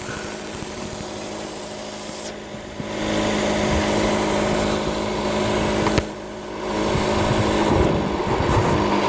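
Chrysler 200 engine running at a high idle with its intake hose off, and air hissing as it is sucked in through an uncapped vacuum nipple on the throttle body. That vacuum leak is the cause of the high idle. The hiss drops away briefly twice, about two and a half and six seconds in.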